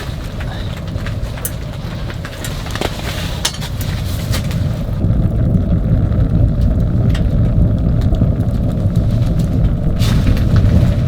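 Wood fire burning in a wood stove: a steady low rumble that grows louder about five seconds in, with scattered sharp crackles and pops.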